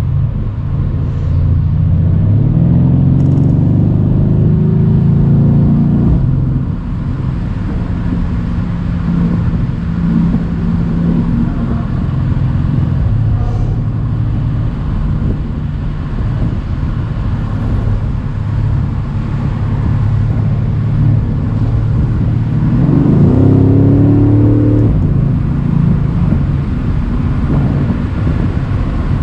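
Mercedes-AMG C63's twin-turbo V8 engine pulling the car along a country road: it accelerates with a rising note about two seconds in, settles to a steady cruise, then accelerates again about three-quarters of the way through.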